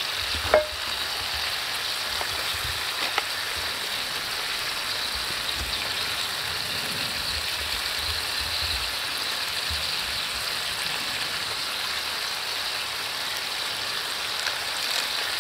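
Tofu and tutut snails sizzling steadily in a wok over a wood fire, with one sharp tap about half a second in.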